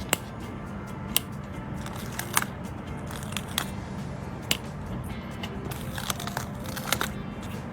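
Quiet background music with a dozen or so irregular sharp clicks and crinkles from sticker sheets and their packaging being handled.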